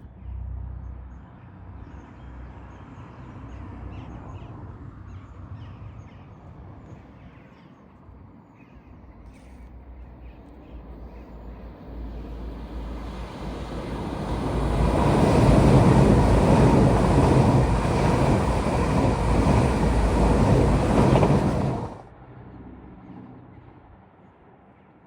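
A train approaching and passing at speed: a rushing rail noise builds over a few seconds, stays loud for about six seconds, then cuts off suddenly.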